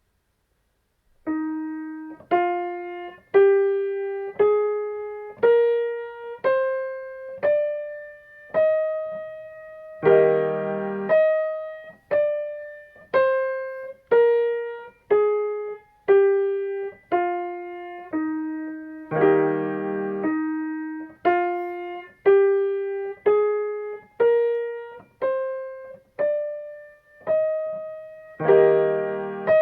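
Shuttle-run pacing tones in E-flat major, played as piano-like keyboard notes about one a second. They climb the scale from E-flat to the E-flat an octave above, step back down, then climb again. A full chord sounds at each turn, about ten, nineteen and twenty-eight seconds in, and each note marks the timing of one lap.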